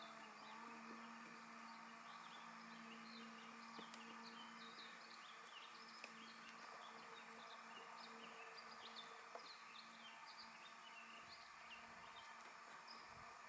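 Faint birdsong: many short, high chirps overlapping irregularly, over a faint steady hum.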